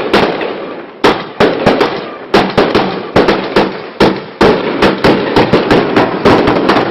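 Two Klasek 'Brocade War' 88-shot firework cakes firing together: a rapid string of sharp shots, each trailing off in a hiss, about two to four a second and coming thicker in the second half.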